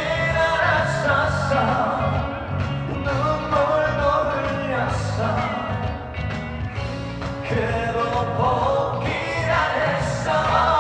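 Trot song performed live: a solo voice singing a melody over a full band accompaniment.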